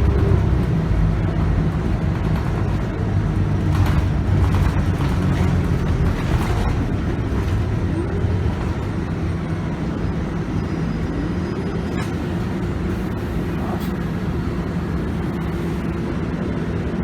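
Scania K280UB bus's 9.3-litre five-cylinder DC9 diesel and ZF Ecomat six-speed automatic gearbox, heard on board while the bus drives. The drivetrain note rises twice, about eight and eleven seconds in, with a few light clicks and rattles.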